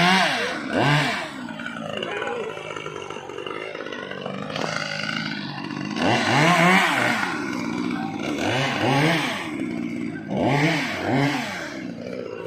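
Chainsaw, as used for ice carving, revved up and let fall back in short bursts of about a second, four times, idling steadily in between.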